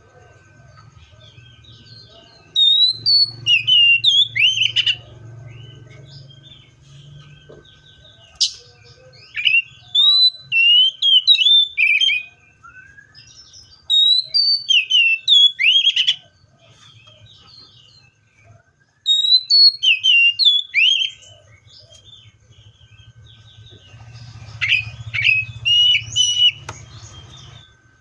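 Seychelles magpie-robin singing: loud, clear whistled phrases of sharply rising and falling notes, given in bursts of a few seconds with short pauses between them.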